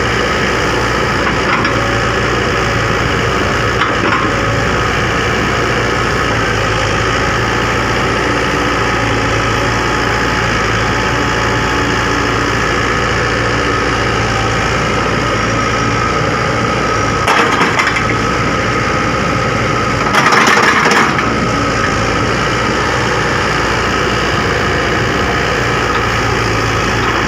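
Heavy-equipment diesel engine running steadily at a constant pitch. About two-thirds of the way through come two brief louder noises a few seconds apart, the second lasting about a second.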